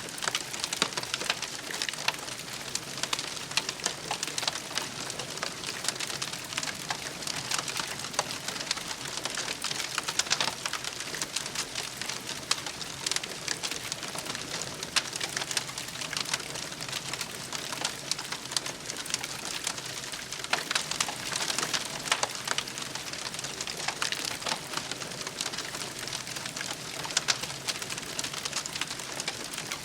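Wood fire crackling steadily, with a dense run of small snaps and pops.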